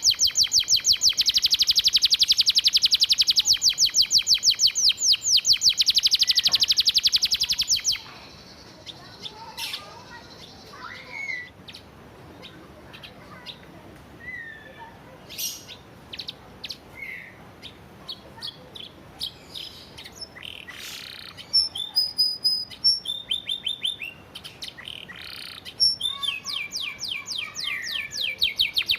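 Canary singing. It opens with a loud, very fast rattling trill of repeated high notes, the rapid-fire 'tembakan' run, lasting about eight seconds. A quieter stretch of scattered chirps and slurred whistles follows, then varied trills build back to a fast rattle near the end.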